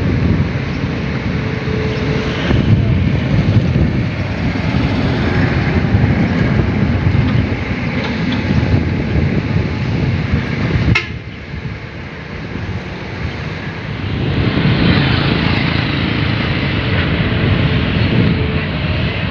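Heavy diesel machinery rumbling steadily, typical of long-arm excavators at work. About eleven seconds in, a click comes with a sudden drop in level, and the rumble builds back up a few seconds later.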